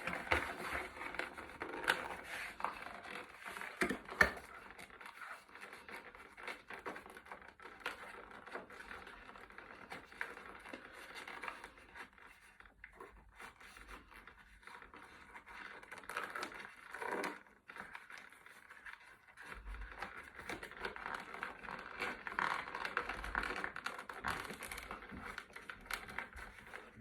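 Crinkling, scraping and light clicking of plastic and cardboard toy packaging being worked by hand as parts of an action figure are freed from the box, with a sharper knock about four seconds in.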